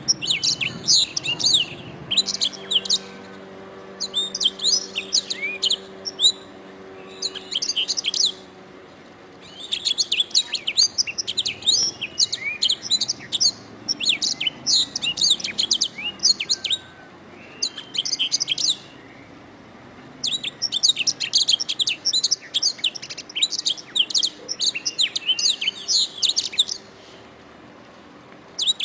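Domestic canary singing: long, fast phrases of high chirps and rolling trills, broken by short pauses every few seconds.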